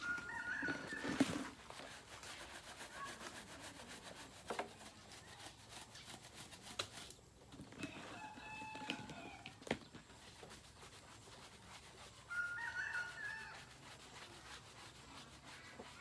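A rooster crowing three times: once at the start, once about halfway through and once near the end. Scattered clicks and knocks sound between the crows.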